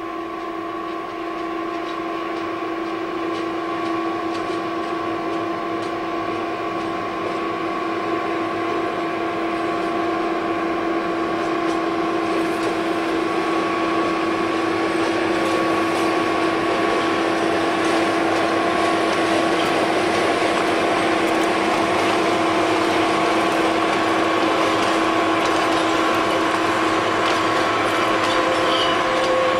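Diesel locomotive of a metre-gauge local freight train running with a steady droning tone, growing steadily louder as the train of boxcars approaches and crosses a stone viaduct. A few short high squeaks come near the end.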